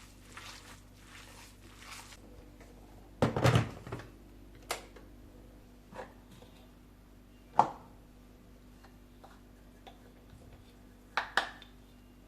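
Household objects being handled: a loud cluster of knocks and clatters about three seconds in, single knocks at intervals after it, and a double knock near the end, like dishes, a door or a cupboard in a kitchen.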